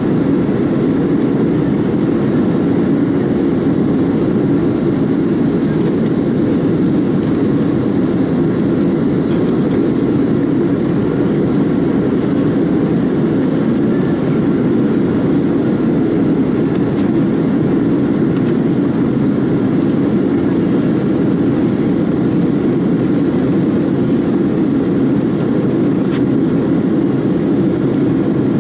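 Steady cabin roar inside a Boeing 767-300ER in flight: its Rolls-Royce RB211 jet engines and the rushing airflow, with the aircraft still climbing.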